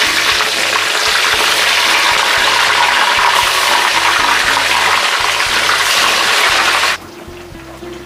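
Slices of marinated tempeh sizzling and crackling loudly as they are dropped into hot frying oil. The sizzling cuts off suddenly about seven seconds in, leaving a much quieter background.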